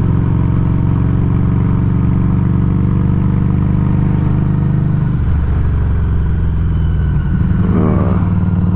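Exhaust note of a 2019 Harley-Davidson Street 500's V-twin through a Firebrand Loose Cannon slip-on muffler, heard close to the muffler while cruising in fourth gear. The note holds steady, then shifts about five seconds in and again about seven seconds in.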